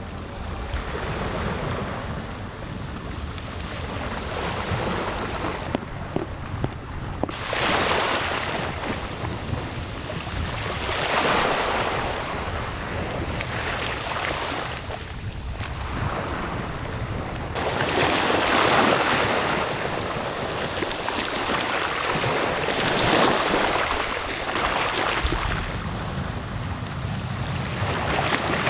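Gusting wind: rushes of noise swell and fade every few seconds over a steady low rumble of wind buffeting the microphone.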